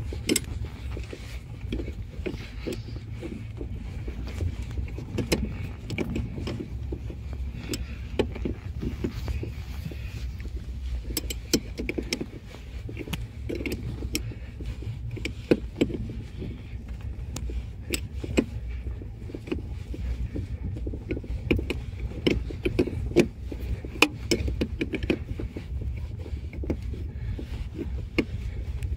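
Renault car's rear suspension knocking sharply and irregularly as the car drives over bumps, over a steady low road rumble heard from inside the boot. The knocks come from a rear shock absorber whose upper nut has been tightened almost all the way down; the owner likens the sound to an exhaust silencer rattling loose.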